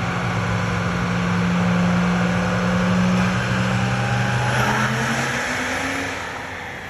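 Diesel pickup truck engine running hard under full load on a chassis dyno, a loud steady note held for about five seconds with a high whine rising near the end, then letting off and fading about six seconds in.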